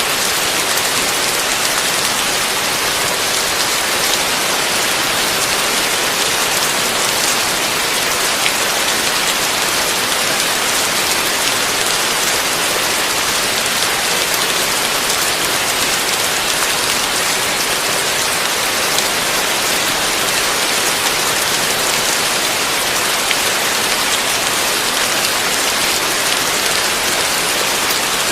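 Heavy rain falling steadily: an even, unbroken hiss with a fine patter of individual drops, and no thunder.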